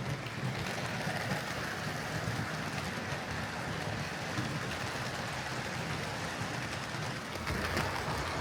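Hornby OO gauge Rebuilt Merchant Navy model locomotive and tender running along the track with a steady rumble and hiss, growing louder near the end.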